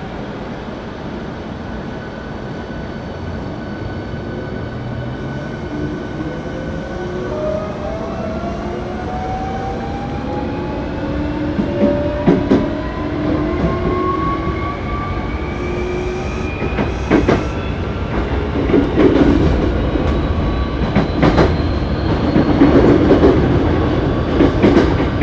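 Hankyu 7300-series train car's traction motors whining, several tones rising steadily in pitch as the train accelerates from a stop. Wheels clack over rail joints now and then, and the rumble grows as speed builds. The car is one noted for an unusual running noise.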